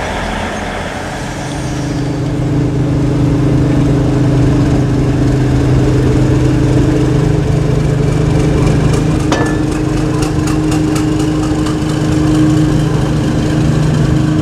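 Diesel train engine running steadily, growing louder about two seconds in as it comes close. A single sharp click sounds about nine seconds in.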